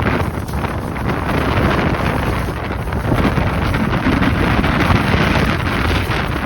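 Storm-force wind buffeting the microphone: a loud, steady rushing and rumbling that swells with the gusts.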